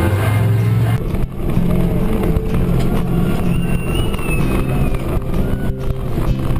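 Ford 7.3 L Power Stroke V8 turbo-diesel engine running loud and steady.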